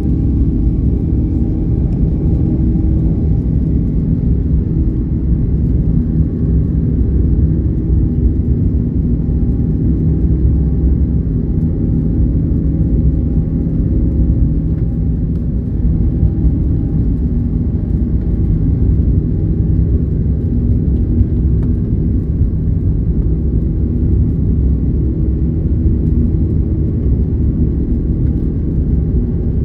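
Airbus A330neo's Rolls-Royce Trent 7000 engines at takeoff power, heard inside the passenger cabin as a loud, steady low rumble with a few faint steady hum tones.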